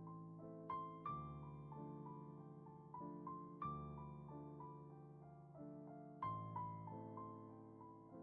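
Quiet, slow piano music: broken chords under a simple melody, a new chord struck about every two and a half seconds and left to ring and fade.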